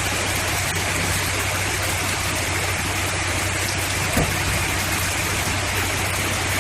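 Heavy rain falling steadily as a dense, even hiss, with a low steady hum underneath and one brief low thump about four seconds in.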